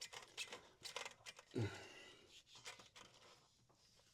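Faint scraping and clicking of a rubber CVT drive belt being worked by hand off the clutch sheaves, with a brief low grunt of effort about one and a half seconds in.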